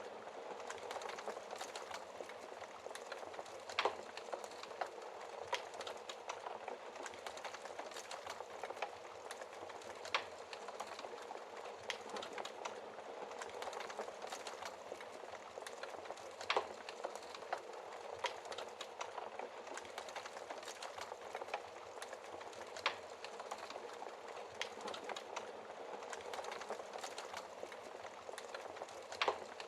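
Wood fire crackling steadily in a fireplace, with a dense patter of small crackles and a louder pop about every six seconds.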